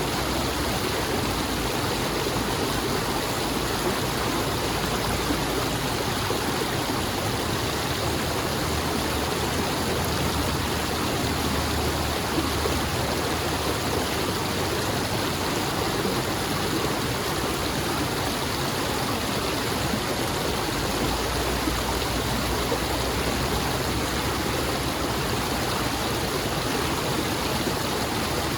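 Steady rushing of flowing water, a stream or small waterfall, with no breaks or changes.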